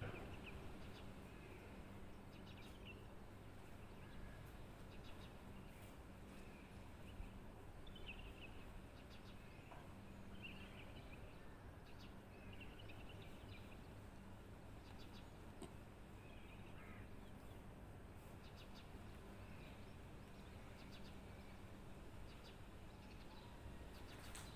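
Faint birdsong: scattered short chirps and calls from a few birds, over a low steady background hum.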